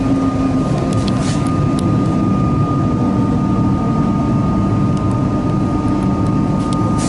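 Interior running noise of a moving Melbourne Metro suburban electric train: a steady rumble from the wheels and running gear with a steady high whine over it, and a few faint clicks about a second in.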